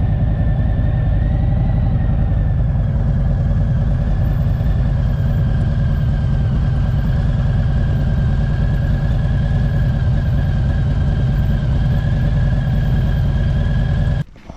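Motorcycle engine running at a steady speed over a heavy low rumble, its pitch drifting only slightly; it cuts off suddenly near the end.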